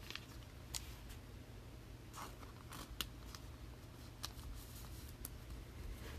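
Trading cards and plastic card holders being handled: a few light, scattered clicks and rustles over a low steady hum.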